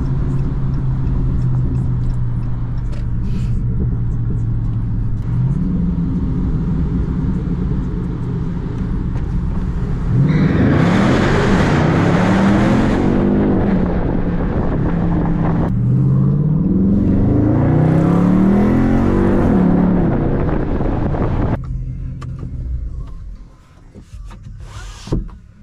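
Dodge Charger Scat Pack's 392 HEMI V8 cruising steadily, then accelerating hard twice, about ten seconds in and again about sixteen seconds in. Each time its pitch climbs and drops back through quick upshifts. The engine eases off and quiets near the end.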